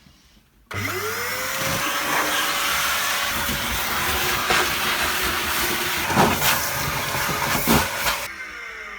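Vacuum cleaner switched on about a second in, its motor pitch rising and then holding steady under a loud hiss, with a few knocks, cut off suddenly near the end.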